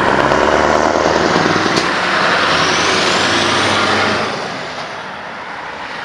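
Scania V8 truck engine running as the truck passes, loud for about four seconds and then fading as it moves away. A thin high whistle rises in pitch partway through.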